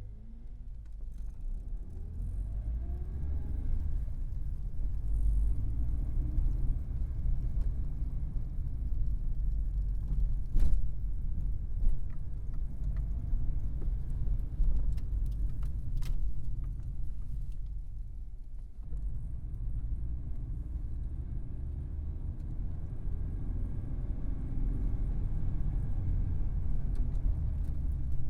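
Vauxhall Carlton's engine running with a deep rumble, its pitch climbing twice as the car accelerates, with a brief easing of the engine about two-thirds of the way through. A short sharp knock stands out about ten seconds in.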